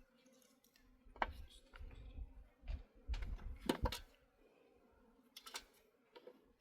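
A handful of sharp clicks and knocks, about five of them, with low dull thuds in between over a faint steady hum.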